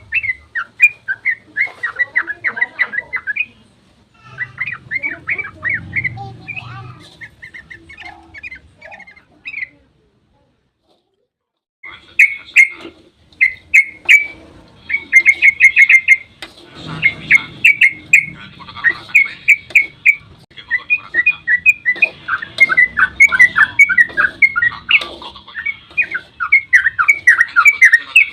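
Yellow-vented bulbuls (trucukan) singing their rapid, chattering 'ropel' song: fast strings of short bubbly notes in bursts. The song drops out for about two seconds near the middle, then resumes denser.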